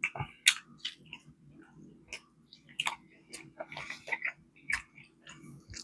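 Close-miked mouth eating fried chicken: irregular wet smacks and clicks of chewing and biting, over a faint steady hum.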